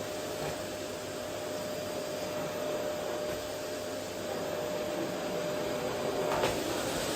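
Vacuum cleaner running steadily, its motor giving an even rushing noise with a steady whine. Near the end there is one brief knock.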